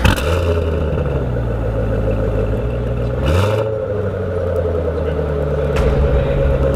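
2014 Corvette C7 Stingray's small-block V8 idling just after being started, its revs rising briefly about three seconds in.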